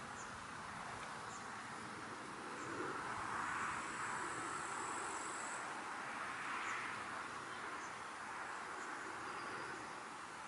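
Countryside ambience: a steady breeze through willow leaves that swells for a few seconds midway, with a thin high insect trill for about four seconds and scattered faint high chirps.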